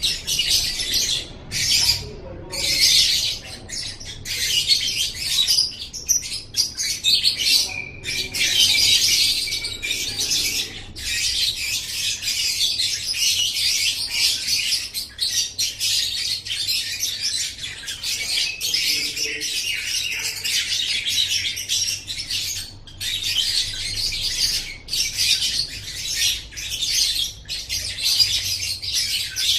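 Lovebird singing: a long, continuous run of rapid, high-pitched chattering twitter with only a few brief breaks.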